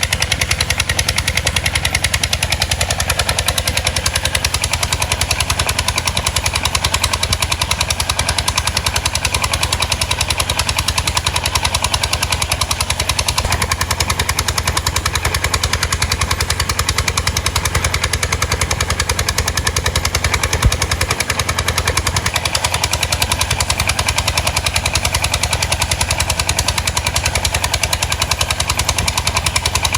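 Boat's diesel engine running steadily, its exhaust beating in rapid, even pulses.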